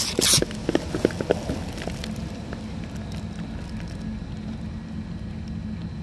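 Seibu 2000 series electric commuter train car: a steady low hum with a faint high tone. In the first second and a half there is a short rush of noise and a run of sharp clicks.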